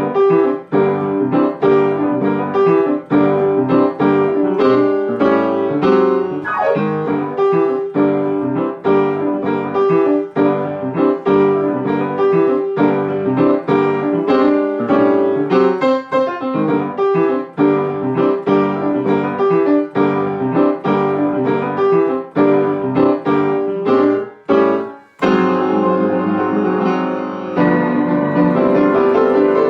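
Solo piano playing an instrumental outro of rhythmic repeated chords. About 25 seconds in it breaks off briefly, then lands on a final chord that is held and rings out.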